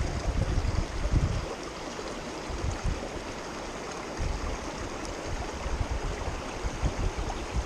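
Creek water running steadily, with an uneven low rumble underneath.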